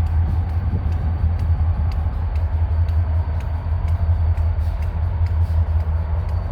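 Diesel freight train rumbling steadily and low, with faint, evenly spaced ticks above the rumble.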